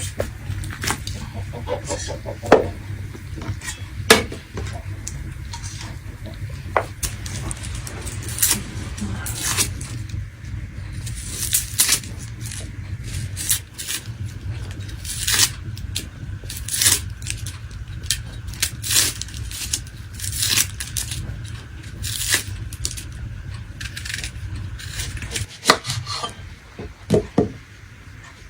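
Cooking utensils clinking and scraping against pots and dishes: a long, irregular run of short, sharp clinks.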